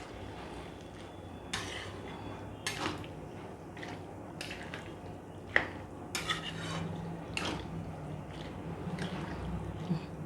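A spoon stirring boiled peas into a thick minced-chicken masala in a kadai, scraping and clinking against the pan at irregular moments. The sharpest clink comes about five and a half seconds in.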